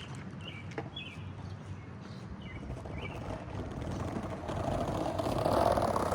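Skateboard wheels rolling on pavement, a rolling rumble that grows steadily louder through the second half as the board comes closer.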